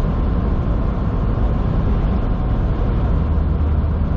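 Steady drone inside a semi truck's cab at highway speed: engine and road noise, heaviest in the low end.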